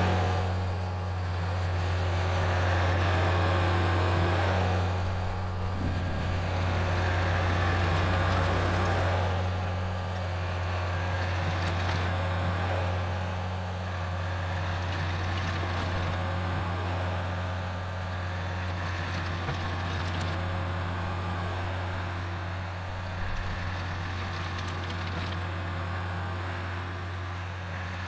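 Kubota L4701 tractor's diesel engine running steadily at working speed, driving a PTO rototiller through the soil. The loudness swells and eases slightly as it works.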